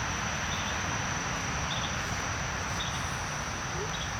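Outdoor ambience: a steady insect drone with a short high chirp repeating about once a second over a constant hiss.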